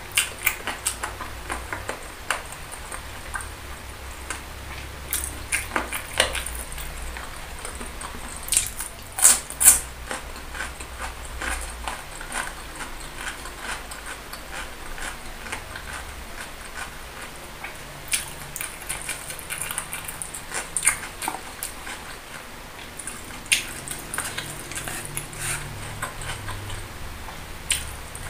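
Close-miked chewing of boneless chicken feet in chili sauce: irregular mouth clicks and smacks, loudest about nine to ten seconds in.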